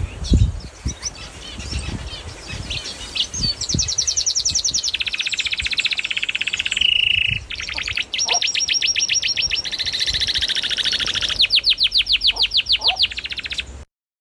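A small songbird singing a series of very fast, high trills, each held for a second or two and shifting pitch from one to the next, after a few seconds of scattered chirps with some low thumps. The song cuts off abruptly near the end.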